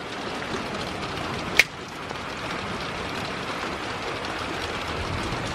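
Steady moderate rain falling, with one brief sharp click about a second and a half in.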